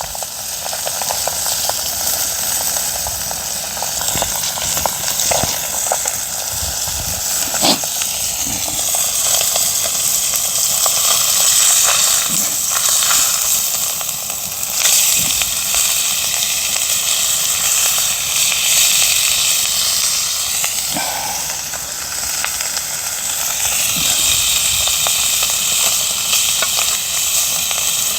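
Sea bass and aged kimchi sizzling on an iron griddle over a wood fire: a steady frying hiss with a few sharp clicks scattered through it.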